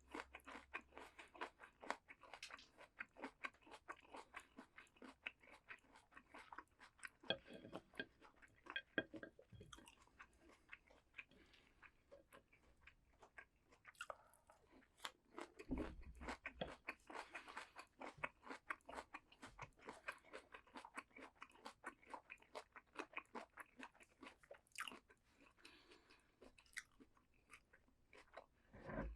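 Close-up crunching and chewing of raw vegetables: a dense run of crisp crunches, with a few louder bites.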